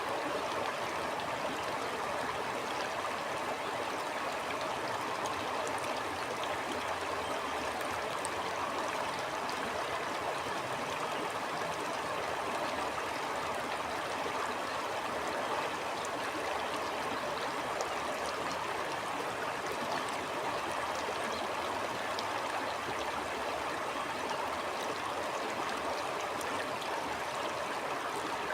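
Stream flowing, a steady rush of water with faint small splashes in it.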